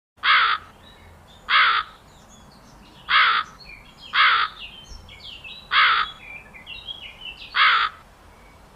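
Crow cawing: six loud, short caws about a second and a half apart, with faint chirps of other small birds between them.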